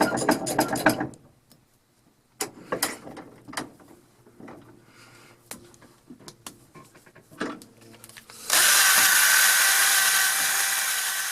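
Clattering clicks and scattered knocks of metal parts being handled and set up, then about eight and a half seconds in an electric drill driving a polishing wheel starts and runs steadily against the metal bit.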